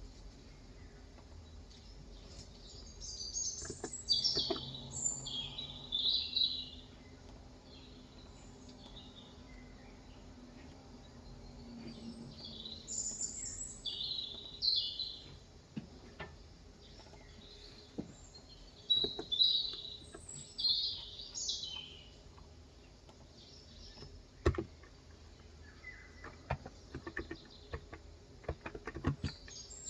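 Small birds chirping in several bursts of quick, high chirps, with scattered single keystrokes on a Cox Endeavor 35 g electrostatic capacitive tenkeyless keyboard, the sharpest about two-thirds of the way in.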